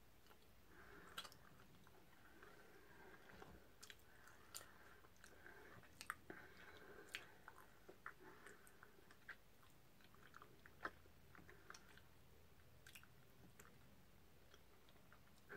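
A person chewing a soft strawberry mochi rice cake: faint, scattered wet mouth clicks over quiet room tone.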